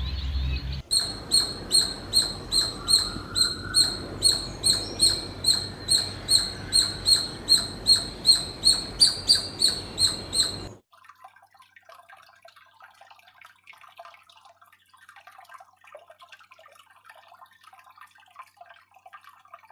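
A small bird calling the same high chirp over and over, about twice a second, for about ten seconds. The calling stops abruptly and only faint scratchy crackling follows.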